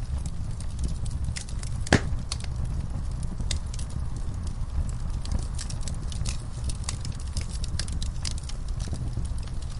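Wood fire crackling in a fireplace: a steady low rumble of the flames with irregular sharp pops and snaps, one louder pop about two seconds in.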